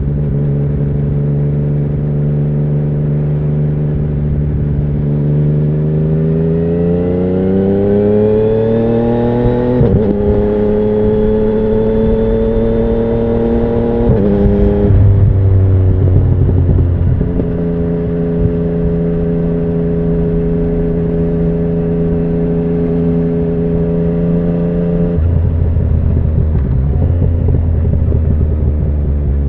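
2017 Yamaha MT-09's 847 cc inline-three engine through an Akrapovic Racing Line carbon full exhaust, running steady, then revving up from about five seconds in, with a brief break near ten seconds before climbing more slowly. It drops away in the middle, holds a steady note for several seconds, then falls back to a lower rumble near the end.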